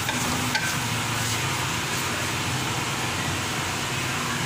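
Minced meat and potato pieces sizzling steadily as they fry in an aluminium kadhai, with a few clicks of the spatula scraping the pan in the first second.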